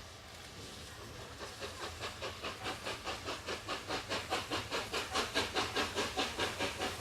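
Steam locomotive Tornado, a three-cylinder A1 Pacific, starting away with even, hissing exhaust chuffs, about four to five a second, that begin about a second in and grow steadily louder. The steady hiss of rain lies underneath.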